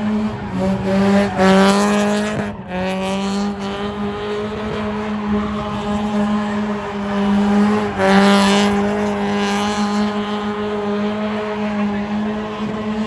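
Car engine held at high, steady revs with tyre squeal, as in a burnout. The revs dip briefly three times, about half a second, two and a half seconds and eight seconds in, then climb back.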